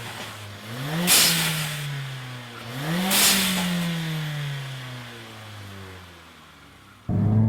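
Mercedes-AMG CLA45's M139 turbocharged 2.0-litre four-cylinder being revved twice, each time the revs climb, then break off in a short, loud burst of turbo flutter hiss as the throttle closes, and the revs fall away slowly. Near the end the engine picks up again sharply and loudly.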